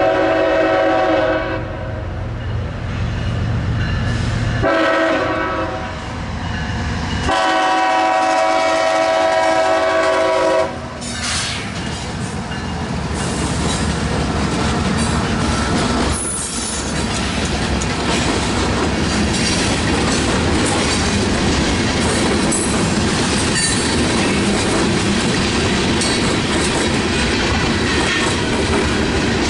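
CSX diesel locomotive's air horn sounding several blasts for the grade crossing, the last a long one ending about eleven seconds in. Then the locomotive and a string of open-top hopper cars roll past with a steady rumble and wheels clicking over the rail joints.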